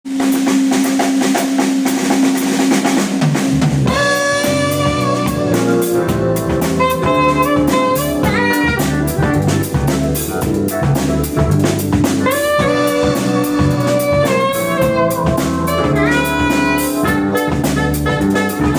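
Jazz quartet playing an instrumental introduction: drum kit under a long held note at first, then a walking bass and a melody line of short pitched phrases coming in about four seconds in.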